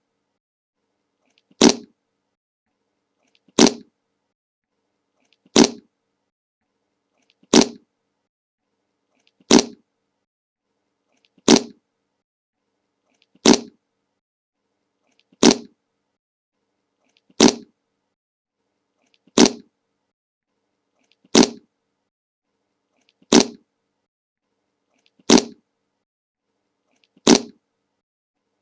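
A short fart sound effect, the 'Le Monke' meme fart, looped over and over: fourteen identical brief blasts about two seconds apart, with silence between each.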